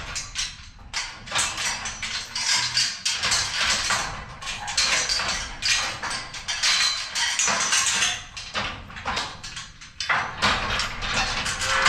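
Irregular knocking, clanking and rustling from handling a cow in a cattle shed, with metal clattering among the noises.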